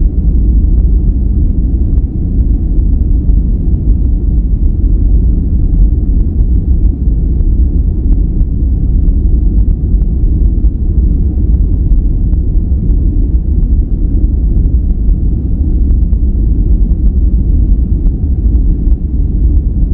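Steady, loud relaxation noise with a deep, muffled rumbling character and no hiss, unchanging throughout.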